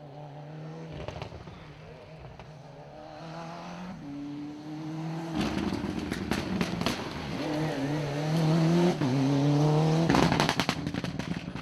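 Rally car engine revving hard through the gears as the car approaches, its pitch climbing and dropping back at each shift and getting much louder partway through, with bursts of sharp exhaust pops and cracks on the throttle lifts.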